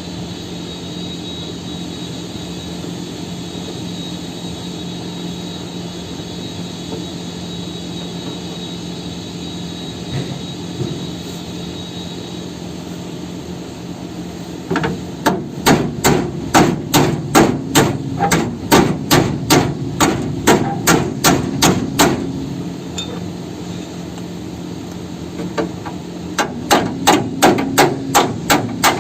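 A steady machine hum, then a hammer striking steel chassis metal in a quick run of blows, about two to three a second, for several seconds. A second run of blows follows near the end.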